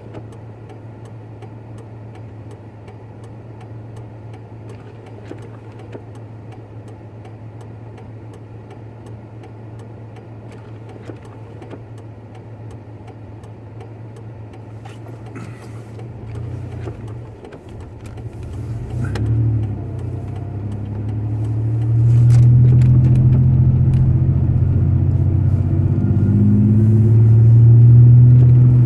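Pickup truck engine heard from inside the cab, running with a steady low hum, then growing louder from about two-thirds of the way in as the truck accelerates.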